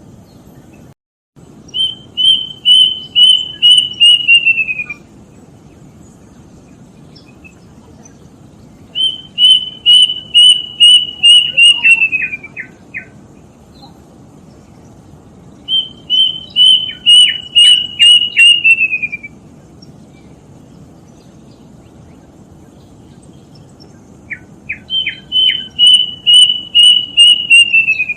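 Plaintive cuckoo (kedasih) singing: four bouts of about seven clear whistled notes each, every bout lasting three to four seconds and sliding lower toward its end, over a steady low hiss. A few short, lower notes fall next to some of the bouts.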